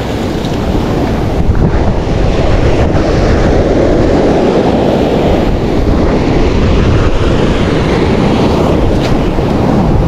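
Sea surf washing steadily against the shore, with wind rumbling on the microphone.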